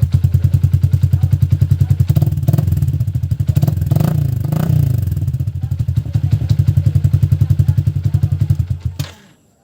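Yamaha Sniper 150's single-cylinder four-stroke engine idling through a newly fitted Akrapovic slip-on silencer, with a steady pulsing exhaust beat. It is revved up and back down briefly around the middle, then cuts off suddenly about half a second before the end.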